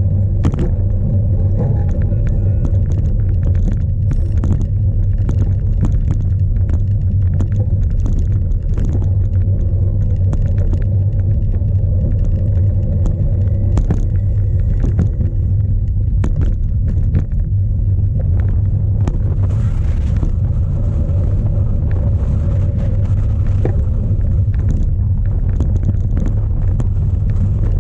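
Strong wind buffeting an onboard camera's microphone on a cyclocross bike ridden hard over rough ground: a steady heavy low rumble with frequent knocks and rattles from the bike, and a rush of hiss about twenty seconds in.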